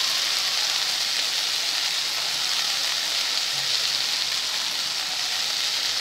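Malabar spinach and chopped vegetables frying in oil in a kadai: a steady sizzle.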